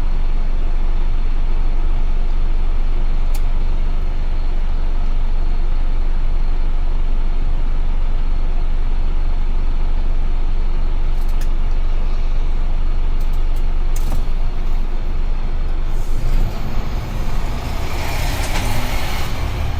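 UD Trucks Quon heavy truck under way, heard from the cab: a steady low drone of engine and road noise. From about sixteen seconds in, a brighter rushing noise builds over it and is strongest near the end.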